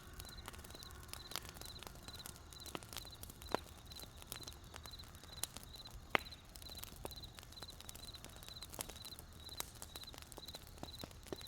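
Wood fire crackling with irregular sharp pops, one louder pop about six seconds in, while crickets chirp steadily in short high-pitched pulses about twice a second.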